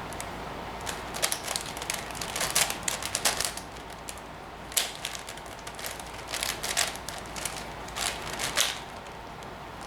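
Plastic 5x5 Rubik's cube being twisted by hand, its layers clicking and clacking in irregular runs of quick turns while the centers are being solved.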